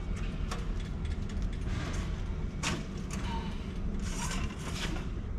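Handling noise as a circuit board is worked out of a computer rack: a few sharp clicks and short scraping rustles of metal and board, over a steady low hum.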